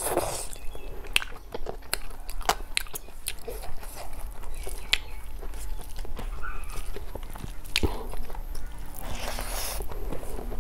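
A person chewing a mouthful of rice and snail curry, with a string of sharp, wet mouth clicks. Near the end comes a soft rustle as fingers mix rice on a steel plate.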